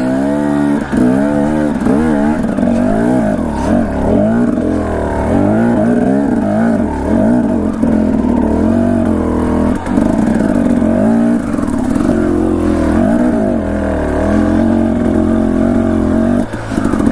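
Dirt bike engine revving up and down continually as it is ridden over rough trail, its pitch rising and falling with the throttle, with a few short knocks along the way.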